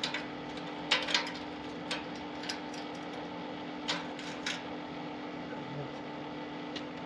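A handful of sharp clinks and taps from tools and exhaust parts being handled, over a steady hum.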